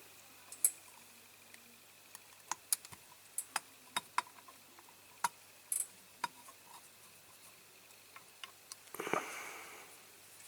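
Faint, irregular light clicks and taps of small diecast metal parts and tools being handled during reassembly, with a short soft rush of noise about nine seconds in.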